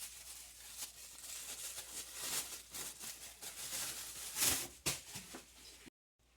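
Rustling and light scraping from hands handling ingredients during kitchen food preparation, with many small ticks and a couple of sharper knocks about four and a half and five seconds in.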